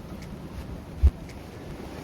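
Wind buffeting the microphone as a low rumble, with one short, dull low thump about a second in.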